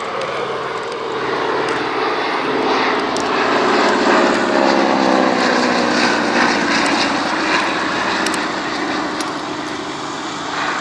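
Propeller aircraft flying past. Its engine note is loudest about four seconds in and drops in pitch as it goes by.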